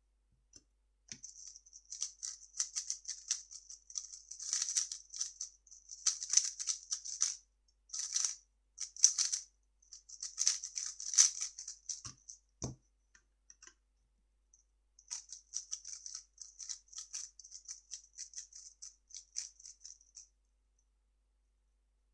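3x3 speedcube being turned fast, a dense run of plastic clicking and clacking broken by a few short pauses. Two low thumps come about twelve seconds in, then another run of turning clicks follows from about fifteen to twenty seconds.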